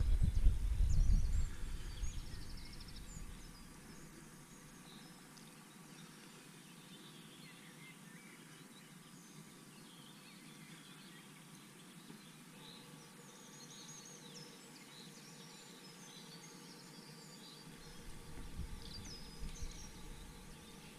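Small birds chirping and calling from the forest below, faint and scattered throughout. A low rumble on the microphone at the start and again near the end is louder than the birds.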